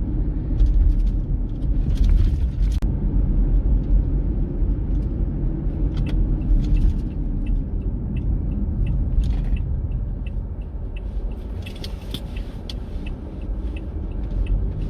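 Car driving on winter roads, heard from inside the cabin: a steady low rumble of engine and tyre noise. Near the middle there is a short run of faint light ticks, about two a second.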